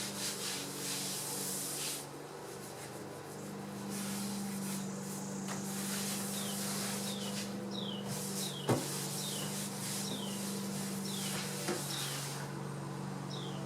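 Hair being combed, a soft rubbing and scratching of the comb through the hair, over a steady low electrical hum. Short high falling chirps come every second or so from about the middle on, with two sharp clicks.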